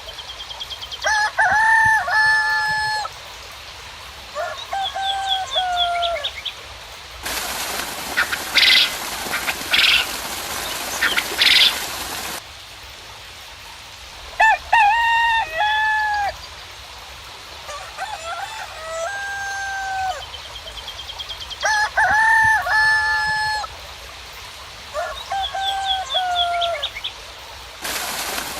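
Roosters crowing again and again, several crows overlapping, with short bird chirps in between. Twice a harsher, noisier stretch of bird squawks cuts in: about seven seconds in for some five seconds, and again near the end.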